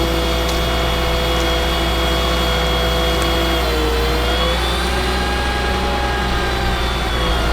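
Ford F750 bucket truck's Caterpillar C7 diesel engine running steadily, with a whine whose pitch drops about three and a half seconds in and shifts again near the end.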